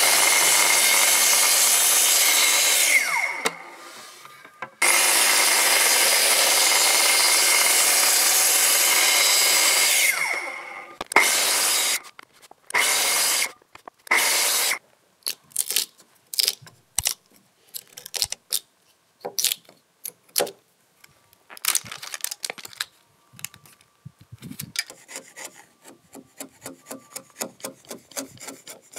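Festool TS 55 REBQ plunge-cut track saw cutting a row of kerfs into an oak beam: two long cuts of several seconds each, the motor winding down between them, then a few shorter cuts. In the second half, a chisel pares out the kerfed oak waste in many quick short scraping strokes.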